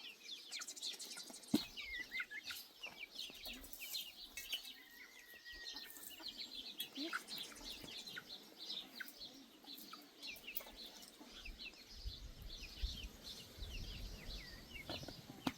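Many birds chirping in quick, overlapping short calls, with a single sharp knock about a second and a half in and a low rumble joining near the end.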